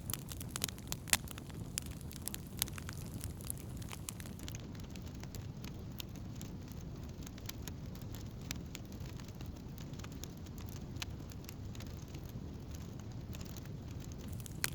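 Wood campfire burning: a steady low rush of flame with scattered sharp crackles and pops of burning wood, thickest in the first few seconds and sparser after.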